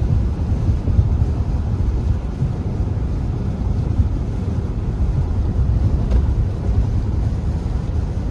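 Steady low rumble of street traffic, with gusty wind buffeting the microphone.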